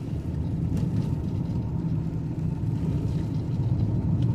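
Car's engine and road noise heard from inside the moving car: a steady low rumble, with a couple of faint clicks.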